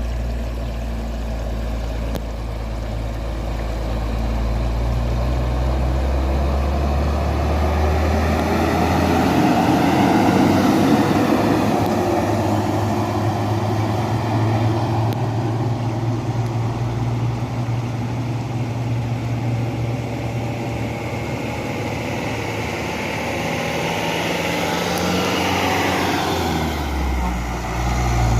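Heavy dump truck loaded with stone driving past, its diesel engine running with a steady low note that swells and fades. The engine note shifts about a quarter of the way in and again near the end.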